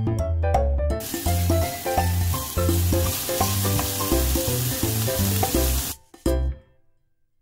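Minced meat-and-vegetable mixture sizzling in olive oil in a frying pan, under background music. The sizzle starts about a second in, and it and the music cut off together about six seconds in.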